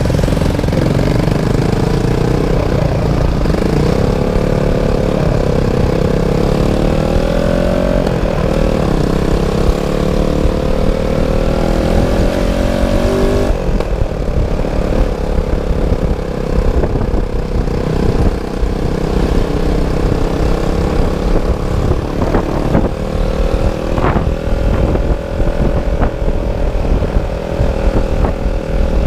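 Motorcycle engine running while riding. Its pitch climbs gradually over the first half, drops suddenly about halfway through, then holds steady.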